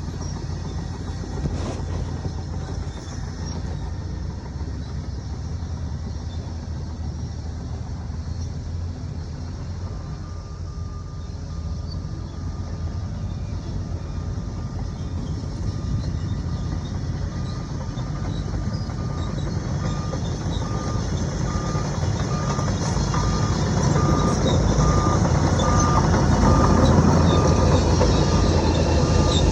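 Diesel engine of a heavy earthmoving machine running and growing louder as it comes closer, with a reversing alarm sounding from about a third of the way in as evenly spaced beeps.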